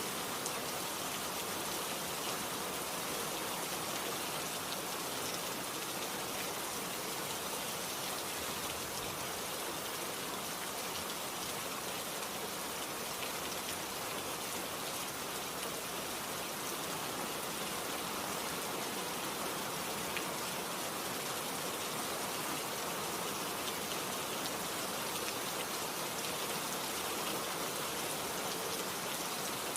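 Steady rain falling, an even hiss of drops hitting surfaces with faint scattered drips.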